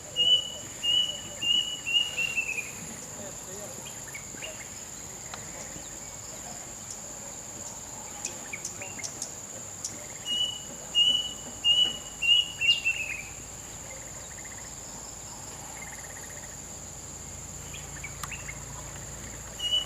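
A bird calling a quick run of five or six repeated notes that drop slightly in pitch at the end, twice, about ten seconds apart, over a steady high-pitched insect drone.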